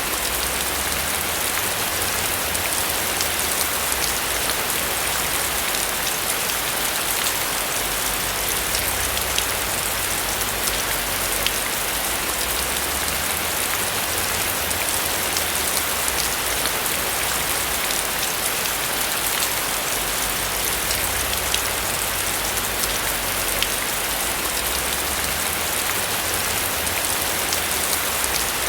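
Steady rain falling on a roof, an even hiss with many small drop ticks.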